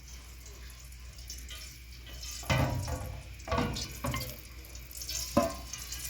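Water splashing in four or five short bursts, starting about two and a half seconds in.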